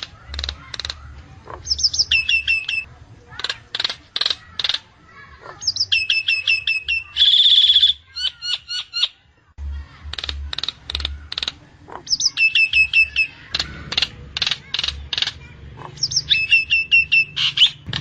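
Nias hill myna calling: loud sharp whistles and clicks alternating with quick runs of falling notes, and a harsh screech about seven seconds in.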